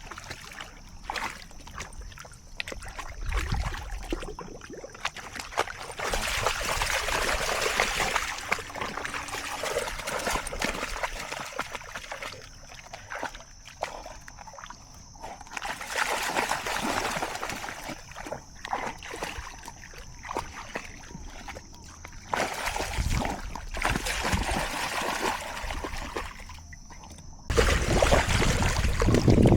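Water trickling and splashing in irregular stretches, with a faint steady high tone in some of the quieter parts and a sudden louder rush near the end.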